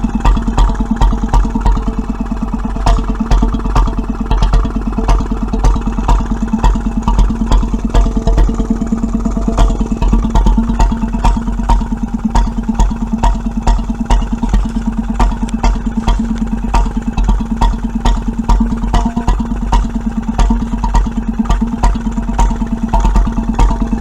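Petter M 1½ hp single-cylinder stationary engine running steadily on petrol, with a regular beat of sharp strokes and clatter. It has a weaker-than-standard governor spring, so it runs below its rated 750 RPM.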